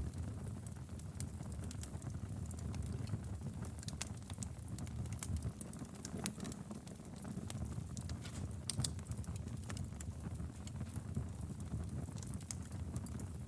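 Wood fire crackling: a steady low rumble of the flames with frequent sharp, irregular pops and snaps.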